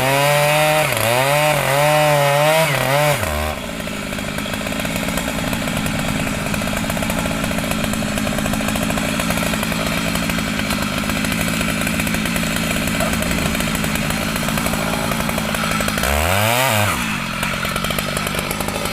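Two-stroke chainsaw cutting mahogany wood, its engine pitch wavering under load. About three and a half seconds in it drops to a steady lower running speed. Near the end the engine pitch briefly dips and climbs back.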